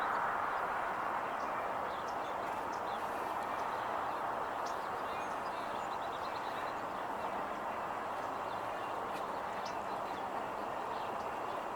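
Steady outdoor background hiss with a few faint, short high chirps or ticks, once about three to four seconds in and again near the end.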